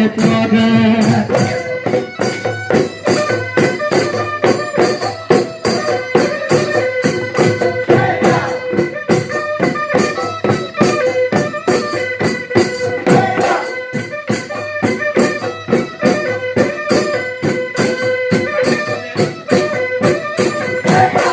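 Husori Bihu music: drum beats and cymbal-like clashes in a fast, even rhythm under a few held melody notes, with no singing.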